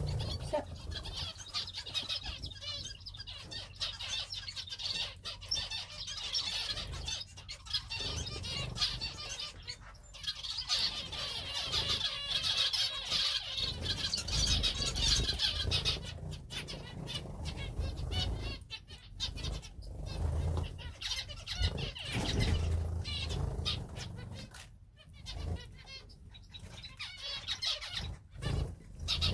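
A mixed flock of small cage finches chirping busily, with frequent short flurries of wingbeats as birds flutter about.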